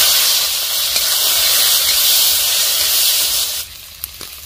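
Crab pieces sizzling loudly as they hit hot mustard oil in a kadhai, the oil hissing hard. About three and a half seconds in, the hiss drops to a quieter frying sizzle with a few light clicks.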